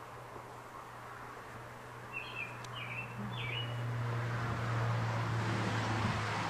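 A small bird gives a few short, quick chirps about two to three seconds in, over a steady low hum. In the second half a rushing noise swells and holds, louder than the chirps.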